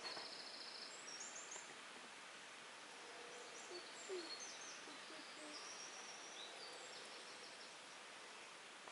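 Quiet outdoor ambience: a steady hiss with small birds chirping and trilling at intervals.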